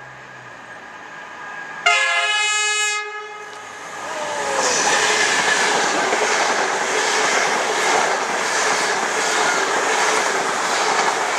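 Class 90 electric locomotive sounds its horn once, a loud blast of about a second, as it approaches. It then runs past at speed hauling Mark 3 coaches: a loud steady rush of the train with the wheels clattering over the rail joints.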